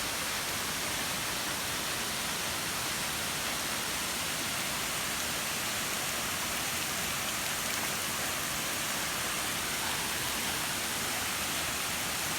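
Steady, unbroken rush of falling water from a high waterfall.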